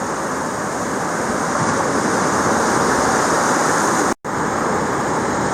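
Atlantic Ocean surf washing steadily at the shoreline. The sound drops out for a split second about four seconds in.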